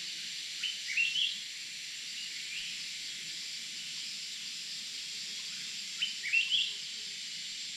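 A bird calls twice, each time a short phrase of quick notes stepping upward in pitch, about a second in and again about six seconds in, over a steady high hiss of insects in the forest at dusk.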